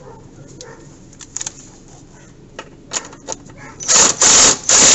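A nut being tightened onto a bolt with a hand tool: light metallic clicks of parts being handled, then two loud rasping bursts of about a second each near the end as the nut is run down.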